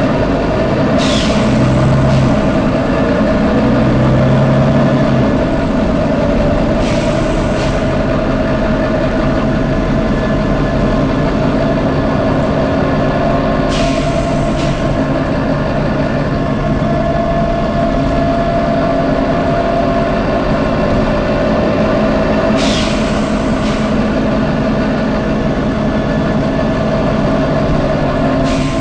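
Volvo B9TL double-decker bus's diesel engine running steadily, broken by short sharp air hisses ('tsh tsh') from its compressed-air system, mostly in pairs about every seven seconds.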